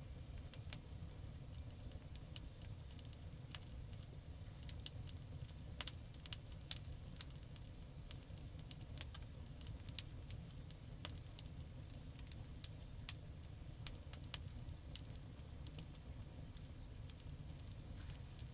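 Campfire burning: wood crackling with scattered sharp pops and snaps, thickest and loudest about five to seven seconds in, over a steady low rumble.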